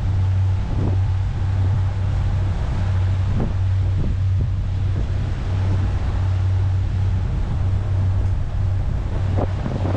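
Motorboat engine running steadily underway, a low, even drone, with wind buffeting the microphone.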